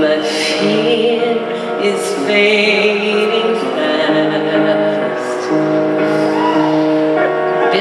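Live concert music: a woman singing over held chords, her voice wavering with vibrato a couple of seconds in.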